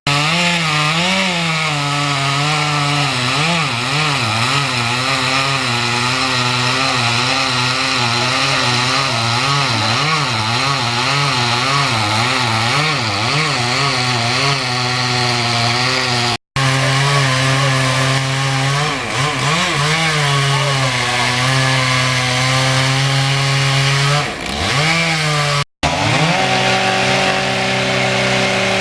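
Large two-stroke chainsaw running under load through a big tree trunk. Its engine pitch wavers up and down in a regular rhythm as the saw works in the cut, then holds steadier, dipping and recovering once near the end. The sound cuts out suddenly twice for a moment.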